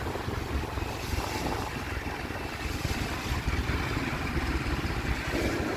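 Steady low rumble of an approaching train, with wind buffeting the microphone. Near the end a train horn begins to sound.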